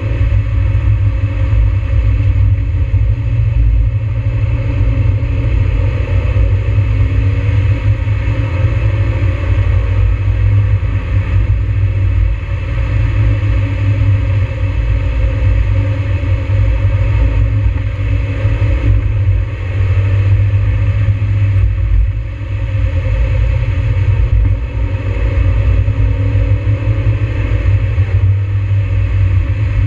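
NB Mazda Miata's four-cylinder engine heard from inside the cabin, rising and falling in pitch as the car is driven hard through the bends, over a heavy low rumble and tyre hiss from the wet road. The engine note eases off briefly a few times, as on lifting off or shifting.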